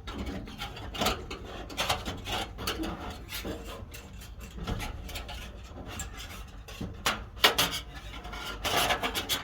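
Fencing wire being handled against a metal corral panel: irregular scraping strokes and metallic clicks, loudest in a burst about seven seconds in.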